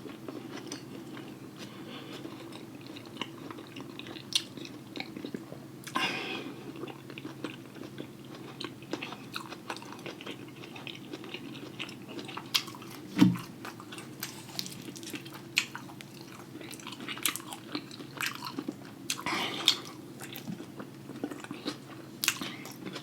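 A person eating close to the microphone: chewing and biting with many small wet mouth clicks and smacks, and a few louder bites spaced through. A steady low hum runs underneath.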